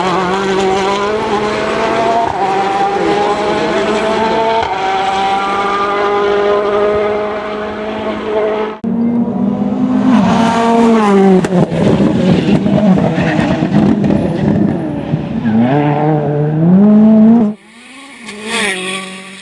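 World Rally Cars' 1.6-litre turbocharged four-cylinder engines at full throttle on a rally stage, in several clips cut together: the engine note climbs and drops back at a gear change, then another car comes off the throttle and revs hard again, and near the end a car is heard more faintly.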